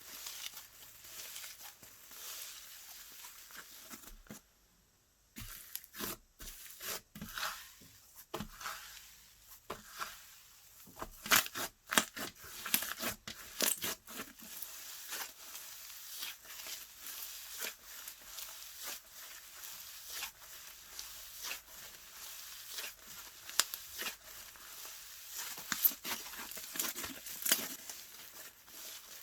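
Hands stretching, poking and squishing slime: sticky crackling, tearing and popping with many sharp little clicks, broken by a short silent gap about four seconds in.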